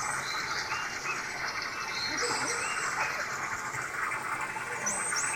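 Outdoor ambience: a steady chorus of insects with short, high bird chirps now and then.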